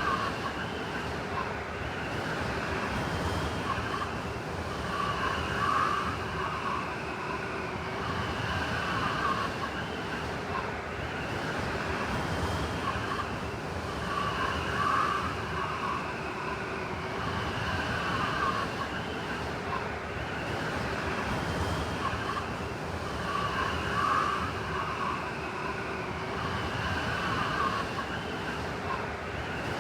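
Blizzard wind blowing steadily, with whistling, howling tones that swell in gusts about every nine seconds.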